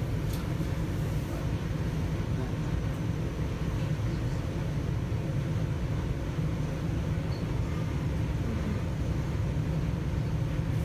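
Interior running noise of an Alstom Régiolis regional train: a steady low rumble.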